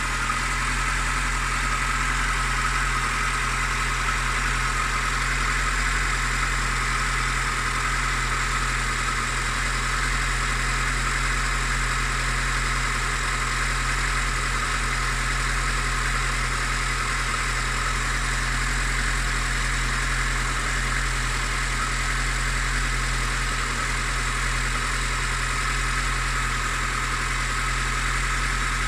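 Engine idling steadily with a knocking noise whose cause is unknown: the owner is asking what it might be.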